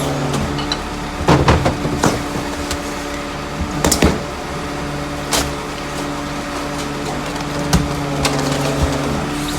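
Rear-loader garbage truck's engine running steadily, with knocks and clattering bangs over it, the loudest clusters about a second and a half in and about four seconds in.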